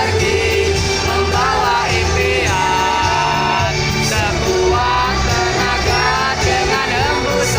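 Pop song performed live over a loud sound system: a group of female singers singing the melody together over a steady band backing track with bass.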